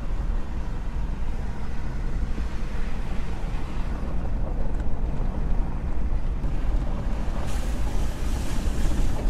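Pickup truck driving on a snowy road: a steady low rumble of engine and tyres, with a hiss joining about seven and a half seconds in.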